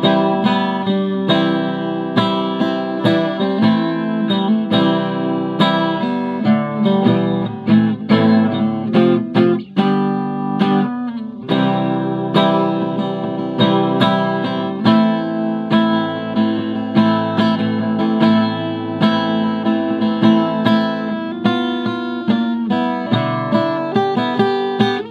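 Acoustic guitar playing an instrumental passage of strummed chords and picked notes, with no singing.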